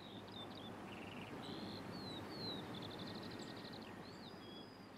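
Wild birds calling: short chirps and slurred whistles, with a rapid trill about halfway through. Under them is a faint low rumble that swells and then fades.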